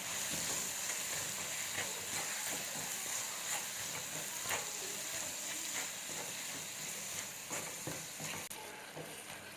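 Chopped vegetables sizzling as they fry in a pan on the stove, with a spatula stirring them and ticking against the pan now and then. The sizzle eases off a little near the end.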